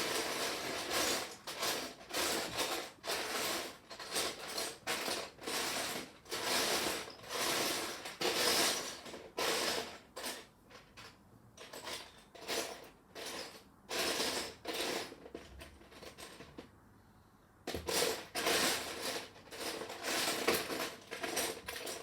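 Loose plastic Lego pieces clattering and clicking as a hand sifts through a pile of them, in a continuous run of short rattles that eases off briefly about two-thirds of the way through before starting again.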